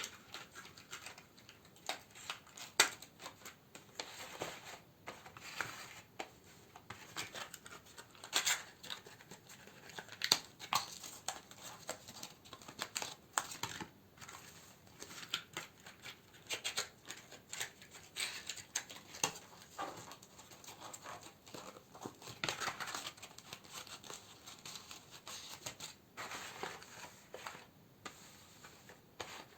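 Candles and their plastic and paper packaging handled close to the microphone: crinkling and rustling, with many light clicks and taps.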